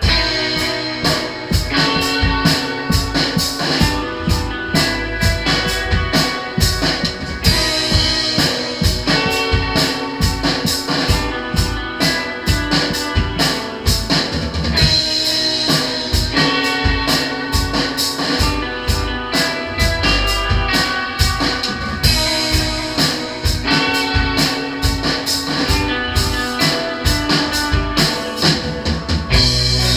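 Live band playing: a full drum kit comes in suddenly at the start over electric guitar and bass, with fast, dense drum and cymbal hits carrying on steadily.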